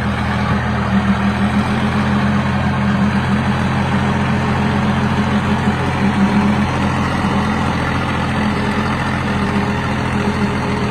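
Tractor diesel engine running steadily at even revs.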